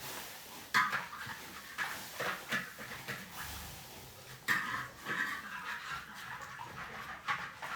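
Wok being scrubbed clean: a series of irregular scraping strokes, several of them starting suddenly.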